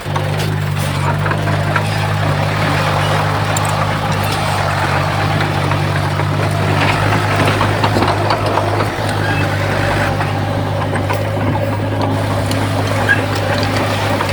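Komatsu D51PX bulldozer's diesel engine running steadily under load, with scraping and clatter from its tracks and blade pushing soil and stone.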